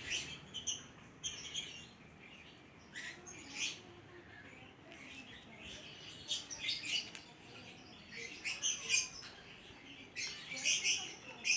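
Birds chirping in repeated bursts of short, high-pitched notes.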